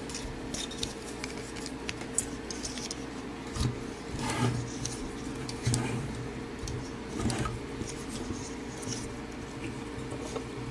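Plastic parts of a model kit figure being handled, with light clicks and short rubbing scrapes as a large plastic blade is fitted into the figure's hand.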